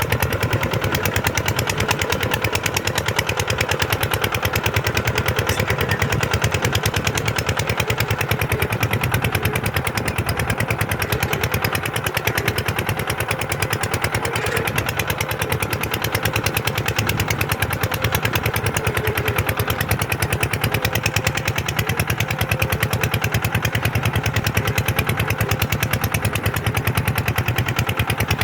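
Kubota tractor's diesel engine running steadily with a fast, even beat, working a plough.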